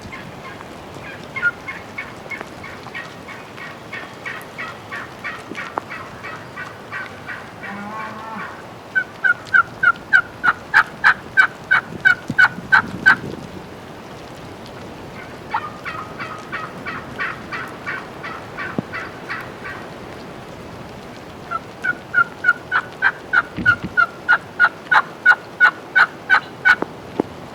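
Turkey yelping: long runs of evenly spaced yelps, about four to five a second. A softer run comes first, then two louder runs, each stopping abruptly.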